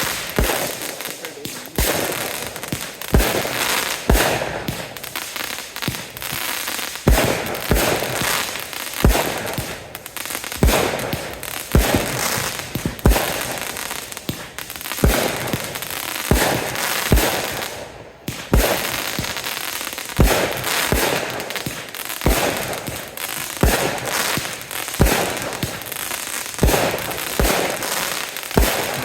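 Fireworks going off in a continuous run: sharp bangs, irregularly spaced at about one a second, over steady crackling. There is a brief lull about two-thirds of the way through.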